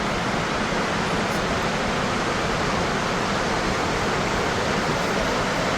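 Gullfoss waterfall's steady rush of falling water, heard as a constant, even noise with no breaks.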